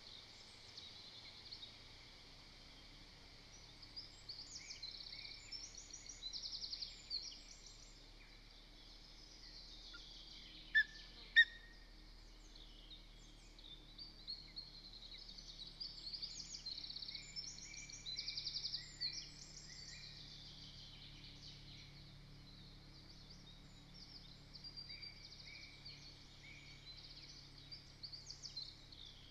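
Small woodland songbirds singing in the background: repeated short high trills and chirps, with two brief, much louder sharp calls about eleven seconds in.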